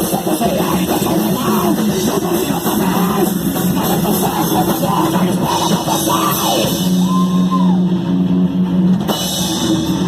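Heavy rock band playing loudly, with drum kit, electric guitar and vocals; a cymbal crash about nine seconds in.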